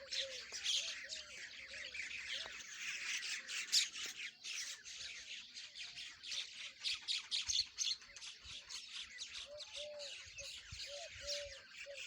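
Myna bird chattering and squawking in rapid, busy calls throughout. A series of short, lower arched notes repeats near the start and again in the last few seconds.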